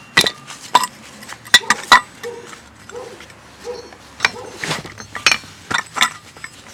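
Irregular metallic clinks and knocks, some ringing briefly, as the lawn tractor's steel variable speed pulley is fitted into its bearing holder with freshly pressed-in ball bearings.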